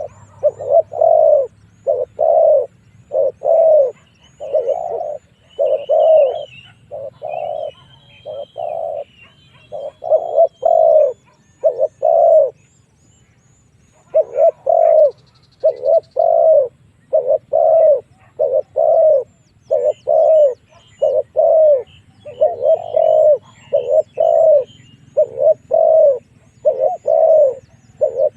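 Spotted dove cooing over and over in quick, steady phrases, with a break of about a second and a half midway. This is the call played as a decoy to draw wild doves in to fight. Other small birds chirp faintly above it.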